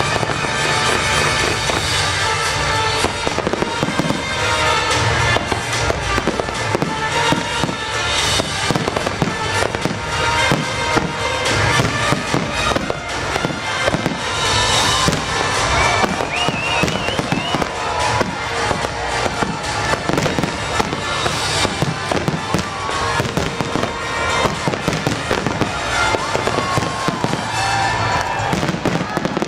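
A dense fireworks barrage: many rapid shell bursts and crackles overlapping without a break. Orchestral show music is heard at first and gives way to the explosions about three seconds in.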